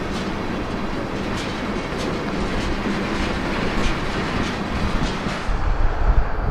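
Freight train of tank cars rolling past at close range, wheels clicking over rail joints in an even rhythm about every half second or more. Near the end the clicking gives way to a strong low rumble.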